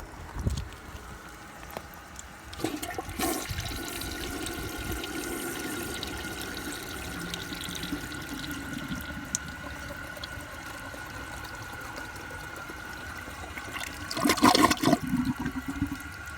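1996 Cranada Galaxy toilet flushing. A click of the handle is followed about three seconds in by a rush of water, with a steady hissing tone from the tank refilling. A loud gurgle comes near the end.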